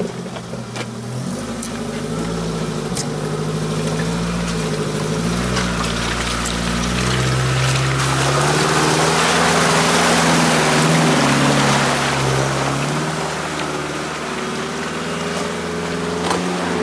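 Mitsubishi Pajero Sport's engine running as it drives along a dirt track, its pitch rising and falling with the throttle. A rushing noise swells and fades in the middle, and a few sharp knocks come through.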